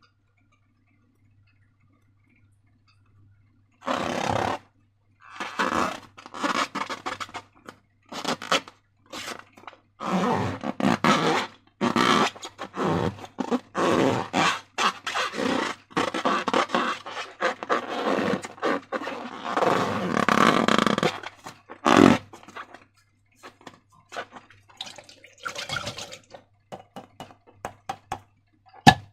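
Slime being squished and stretched by hand: irregular wet squelching and scraping that starts about four seconds in, thinning after about twenty-two seconds to scattered light clicks and taps.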